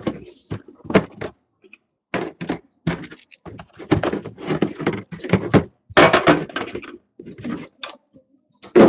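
Sealed trading-card boxes and packs being handled and opened: a run of irregular thunks, knocks and rustles.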